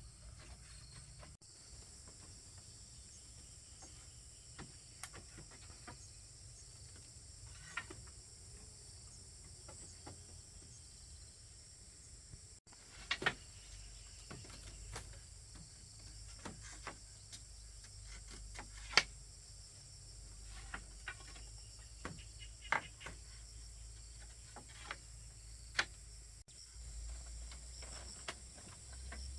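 Steady high-pitched insect chirring, crickets or similar, with a scattered series of sharp knocks or clicks through the second half, one louder knock standing out.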